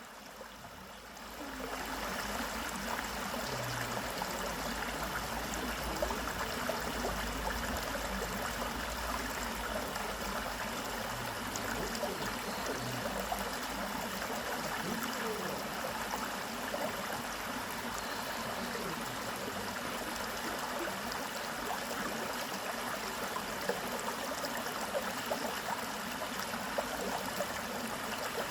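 Valley stream water flowing, a steady rush that comes up about a second and a half in.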